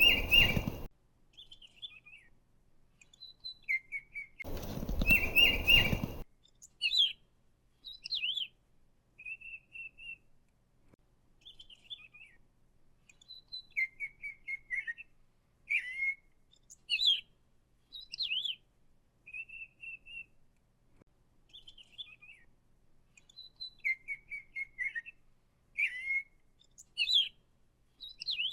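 Pet parrots chirping in short, repeated high calls and brief whistled notes, some in quick runs of three or four, with pauses between. Two loud rushes of noise, one at the very start and one about five seconds in, briefly cover the calls.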